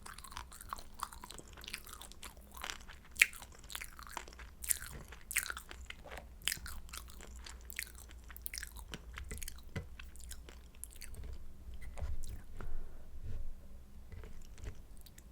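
Close-miked chewing and crunching of crispy pan-fried kimchi dumplings: irregular crackly crunches, one sharp crunch about three seconds in, thinning out over the last few seconds.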